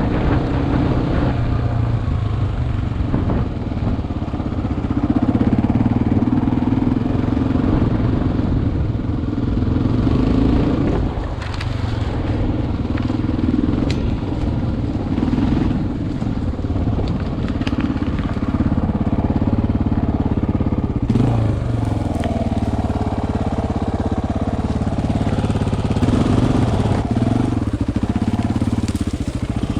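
Single-cylinder four-stroke dual-sport motorcycle engine running under way off-road, its pitch rising and falling with the throttle, with scattered crunches and clicks through it.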